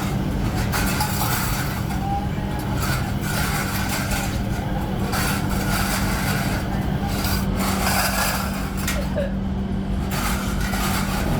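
Workshop machinery in a kettle-making shop: a steady motor hum with irregular scraping and rubbing throughout.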